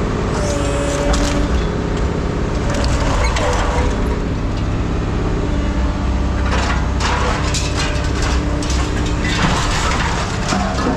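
A heavy machine's engine runs steadily under repeated cracking and crunching as scrap metal is grabbed and crushed. A few short whining tones sound over it.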